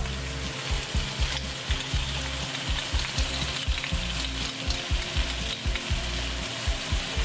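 Strips of bell pepper and onion sizzling in oil in a hot wok, a steady frying hiss, as ketchup is spooned onto them.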